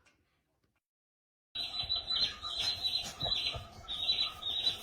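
Dead silence for about a second and a half, then a run of short, high-pitched animal squeaks or chirps, roughly two a second.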